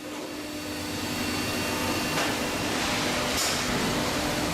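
Heavy machinery running in a car-recycling plant: a steady mechanical noise with a constant low hum, building up over the first two seconds, with brief hisses about two and three and a half seconds in.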